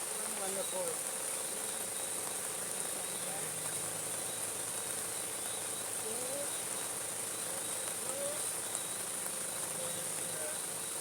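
Steady high-pitched insect chorus, a continuous shrill trill like crickets, with faint voices in the background.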